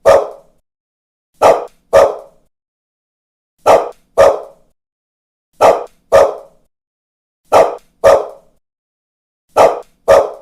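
A dog barking in pairs, woof-woof, about every two seconds, with silence between the pairs.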